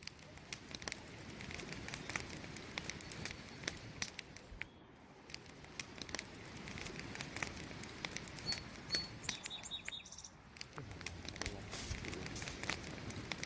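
Wood campfire crackling and popping in quick irregular snaps over a low, steady rumble of burning. A few brief high chirps sound a little past the middle.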